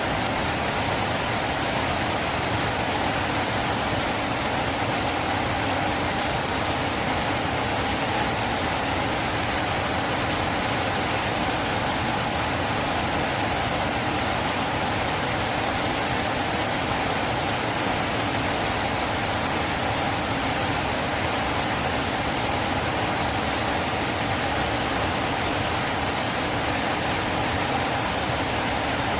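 A river flowing: a steady, even rush of running water that does not change.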